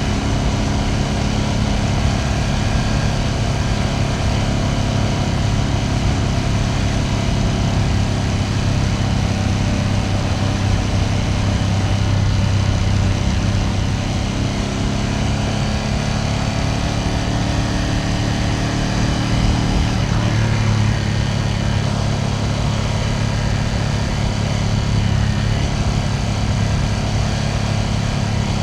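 Ducati Panigale V2S V-twin engine running steadily while the motorcycle is ridden. The engine pitch climbs slowly and then drops back about twenty seconds in.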